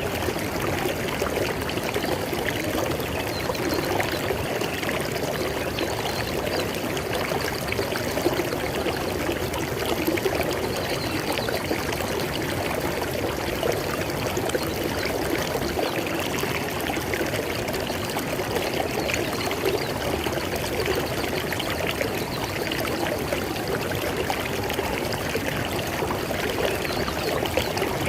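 River water flowing in a steady, even rush with splashing and gurgling, without let-up.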